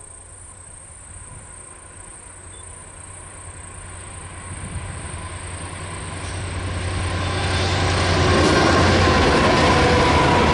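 Two NSW 82 class EMD diesel locomotives approach with a low engine rumble that grows steadily louder, reaching full volume as they pass about eight seconds in. The wheel noise of empty wheat hopper wagons rolling past follows.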